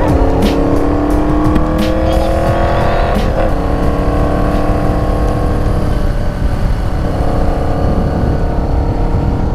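Motorcycle engine accelerating up through the gears: its pitch climbs, drops at a gear change about three seconds in, climbs again, and eases off around seven seconds. A heavy wind rumble on the microphone runs under it.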